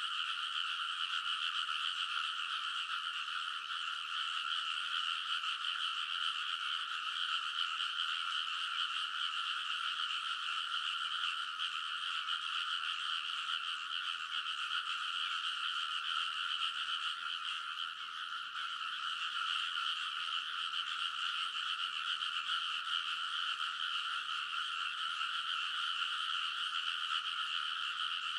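A dense, unbroken chorus of many frogs calling together in a rice paddy, their croaks merging into a steady din. It thins briefly about two-thirds of the way through.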